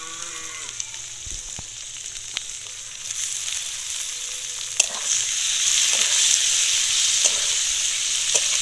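Chopped raw chicken and onions sizzling in hot oil in a metal karahi. The sizzle grows louder about three seconds in and again around five seconds. A metal spatula clicks and scrapes against the pan as the meat is stirred.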